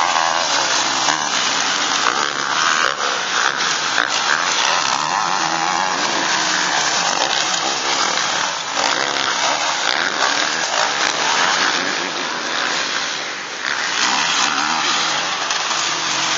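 Motocross motorcycle engines running at high revs, their buzzing pitch wavering up and down as the riders work the throttle.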